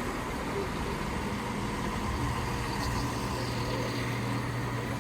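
Class 170 Turbostar diesel multiple unit arriving, its underfloor diesel engines running with a steady low hum over wheel and rail noise.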